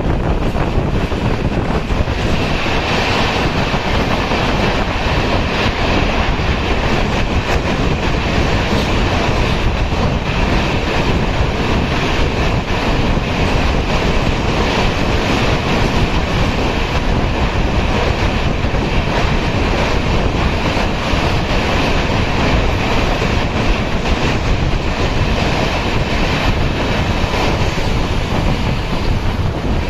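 Passenger train running along the track at speed: a loud, steady rumble and rush of wheel-and-rail noise.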